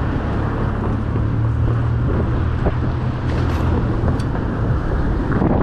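Road traffic and wind rush on a chest-mounted action camera while cycling, with a nearby motor vehicle's engine humming steadily until it fades about five seconds in.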